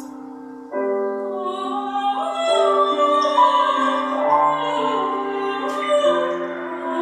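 Soprano singing slow, sustained notes in an operatic style, with instrumental accompaniment; the music swells fuller about a second in.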